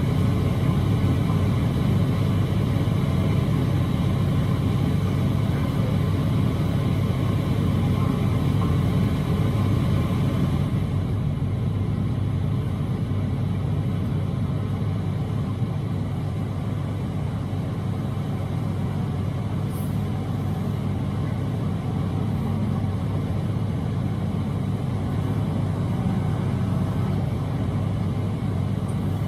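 A semi truck driving at speed on a snowy highway: its diesel engine drones steadily under the road and tyre noise. The higher hiss fades about ten seconds in.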